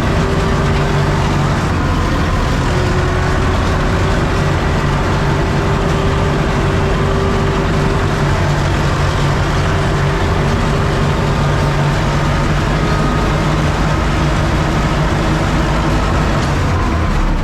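Universal U650 tractor's diesel engine running at a steady, even speed while pulling a row-crop cultivator through the field.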